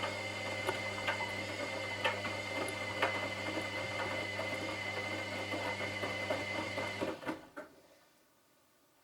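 Washing machine running with a steady motor hum and whine and irregular clicks and knocks from the drum; about seven seconds in the motor stops after a couple of knocks, leaving only faint background hiss.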